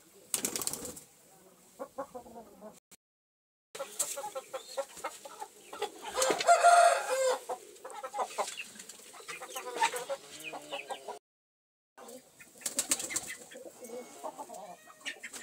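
Domestic birds calling, with repeated clucking notes and a louder drawn-out call about halfway through, plus short bursts of rustling. The sound cuts off abruptly twice.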